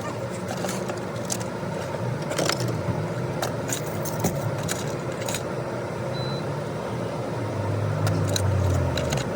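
Car-wash vacuum running steadily while things are handled inside the car, with scattered clicks, knocks and jangles.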